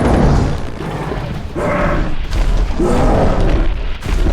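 Film battle sound effects: deep booming impacts over a heavy low rumble, swelling up several times.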